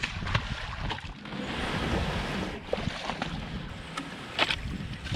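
Water sloshing and splashing around a canoe in cold shallows, with a few sharp knocks against it.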